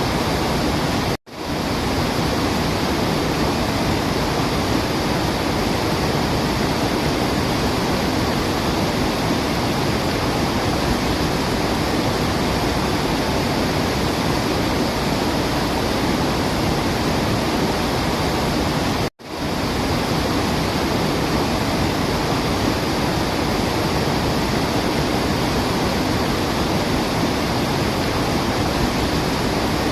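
Waterfall: a steady, even rush of falling water with no birdsong standing out. It drops out to near silence for an instant twice, about a second in and again about two-thirds of the way through.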